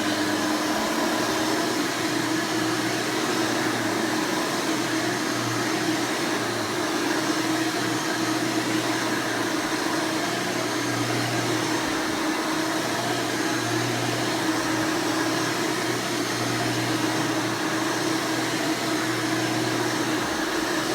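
Hoover Elite Supreme U5071-930 upright vacuum (1996) running steadily, its 7.2-amp direct-air motor turning a replacement 20-blade fan. It gives a smooth, loud, even rush of air over a constant low hum.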